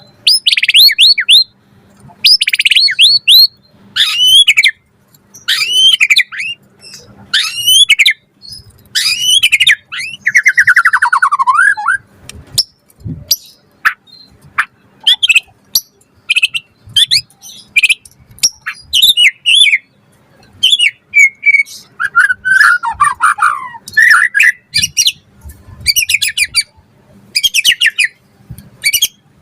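White-rumped shama (murai batu) singing a loud, varied song: short whistled and chattering phrases one after another with brief pauses, and a slower falling trill about ten seconds in and again about twenty-two seconds in.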